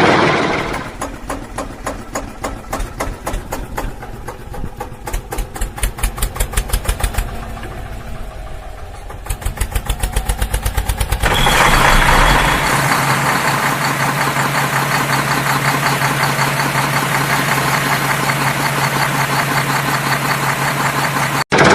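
Vehicle engine sound, chugging in a quick, even rhythm for about the first half, then changing to a louder, steadier running sound with a low hum. It cuts out briefly near the end.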